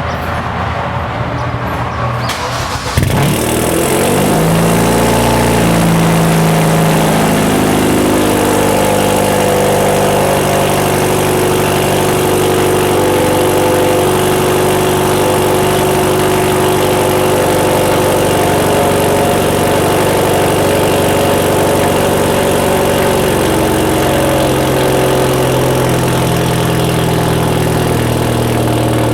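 A Hyundai Genesis Coupe 2.0T's turbocharged four-cylinder through a 3-inch catless single-exit exhaust is cranked and catches about three seconds in. It then holds a steady high idle, which drops a little lower near the end.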